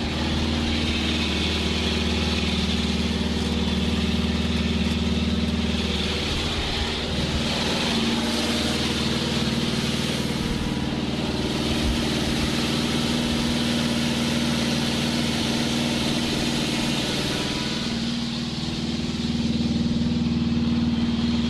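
Subaru Impreza WRC rally car's turbocharged flat-four engine idling steadily.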